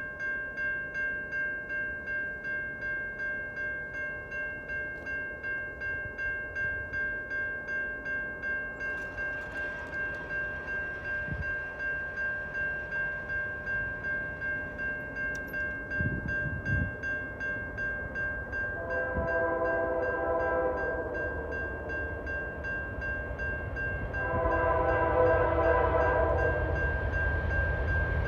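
Level-crossing warning bell ringing at about two strokes a second. Over it, the lead CN locomotive's multi-note horn sounds two long blasts, about 19 and 24 seconds in, and a third starts near the end. The train's low rumble grows louder as it approaches.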